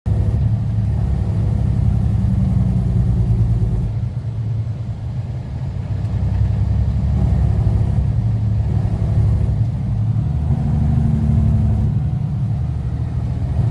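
Tractor-trailer's diesel engine running steadily, a deep low drone, easing slightly about four seconds in before coming back up.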